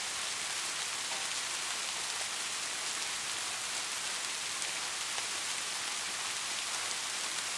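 Heavy rain falling steadily: an even hiss with fine ticks of individual drops, and no thunder.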